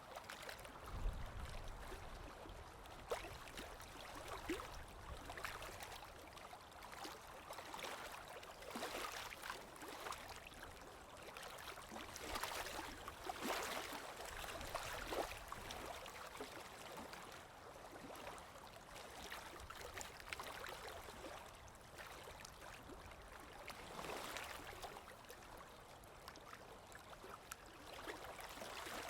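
Sea waves breaking and washing in, with the noise swelling and fading in slow surges and loudest around the middle.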